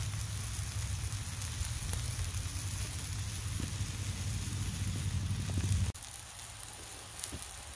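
Campfire crackling with pork sizzling in a pan over the fire, a steady crackly hiss with a few faint pops. A low rumble on the microphone underneath stops abruptly about six seconds in.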